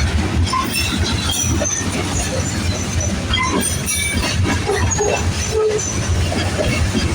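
Freight train rolling past with a steady heavy rumble, and short high-pitched wheel squeals and screeches coming and going over it.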